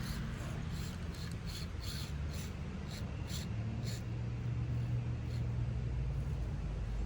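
Axial SCX24 micro RC crawler driving slowly over the course: a steady low motor and gear hum, with quick ticks about three a second in the first four seconds.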